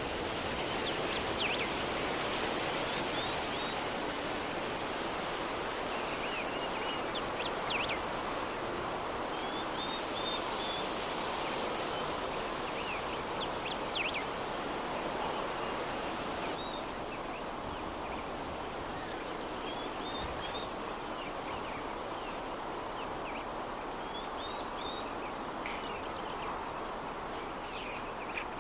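Steady soft breeze, an even rushing noise, with short high bird chirps in little runs every few seconds.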